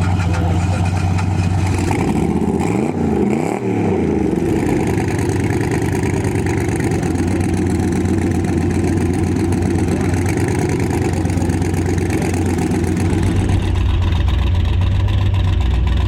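Car engine running steadily, with revs briefly rising and falling about three seconds in.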